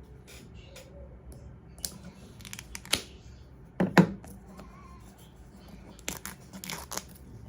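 Packaging handled during an unboxing: scattered clicks and brief rustling or tearing of packaging material, with a louder knock about four seconds in.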